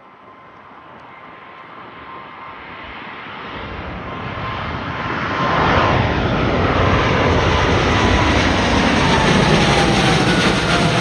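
Jet airliner climbing out overhead at takeoff thrust. Its engine roar builds steadily and is loudest from about six seconds in, with a whine that slowly falls in pitch as the aircraft passes over.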